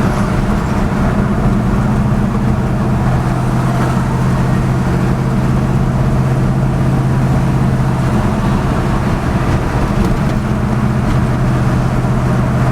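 1978 Chevy K30 pickup's engine running, a steady low hum that holds even throughout.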